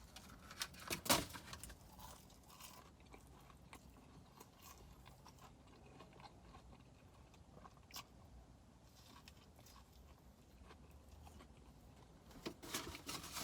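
A person chewing fast food close to the microphone, mostly soft, with a few sharp crunching clicks, the loudest about a second in and another about eight seconds in.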